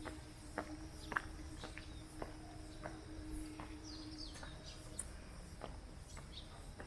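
Footsteps at an even walking pace, under a steady low hum that fades out about two-thirds of the way through, with a few faint high chirps.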